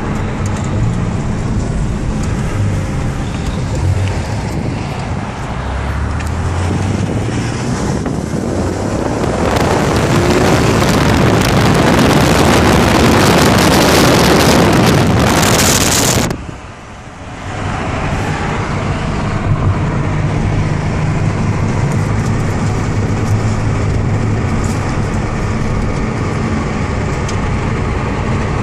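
Porsche 911 flat-six engine and road noise heard from inside the cabin while driving, the engine rising in revs about five seconds in. From about nine seconds in, loud wind rushes over the microphone held outside the car, cutting off suddenly about sixteen seconds in, and then the engine runs steadily while cruising.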